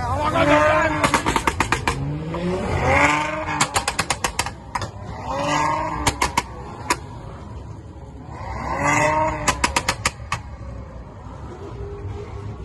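A tuned vehicle engine revved hard four times, its pitch climbing and falling each time. Each rev is followed by a rapid string of sharp exhaust pops and crackles as the throttle closes.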